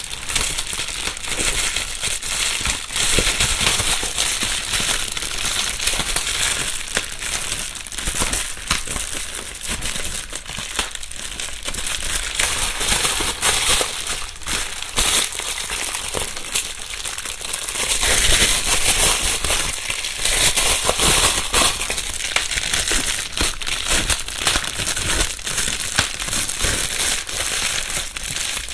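Plastic bubble wrap being crumpled and rustled, with a continuous crinkling and crackling of small clicks and pops. It grows louder and denser about two-thirds of the way through. Recorded binaurally.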